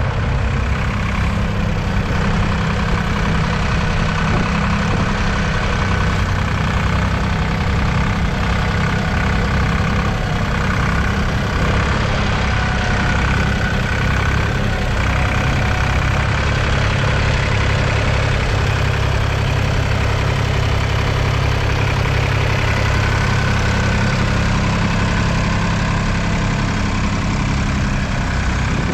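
1966 Nuffield 10/42 tractor's 2.8-litre three-cylinder diesel engine running steadily, a deep, even diesel note.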